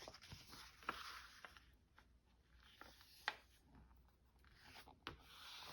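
Faint rustling and light taps of paper sheets being handled and set down, with a few small clicks scattered through.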